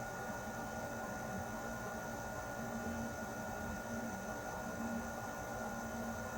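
Air conditioner running steadily: an even whooshing hiss of moving air with a low hum and a few faint steady whining tones.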